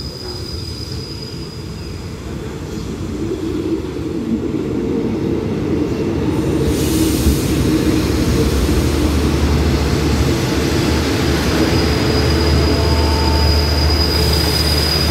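Diesel railcar express train pulling into the platform, its rumble growing louder as it comes alongside, with the low steady hum of its diesel engines. A thin, high, steady brake squeal is heard at the start and again over the last few seconds as the train slows to a stop.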